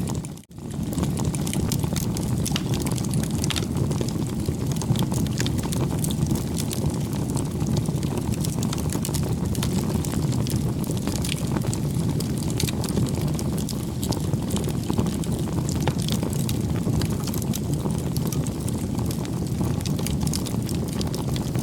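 Wood bonfire burning: a steady low rush of flame with frequent small crackles and pops throughout, broken by a brief dropout about half a second in.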